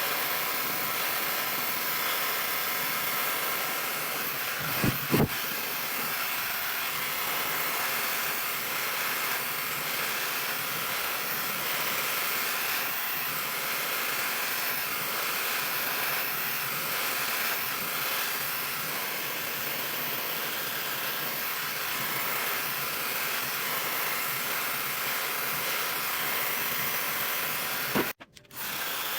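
Handheld ionic hair dryer running steadily, its airflow an even hiss, with two brief knocks about five seconds in. The sound cuts out for a moment near the end.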